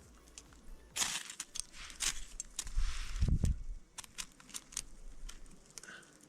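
Flint and steel struck repeatedly to light a fire: a run of sharp scrapes and clicks, with a brief low rumble about three seconds in.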